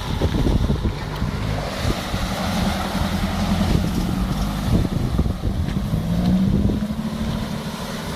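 Car engine running hard while drifting on a wet road, its note holding steady and then rising briefly about six seconds in, with wind buffeting the microphone.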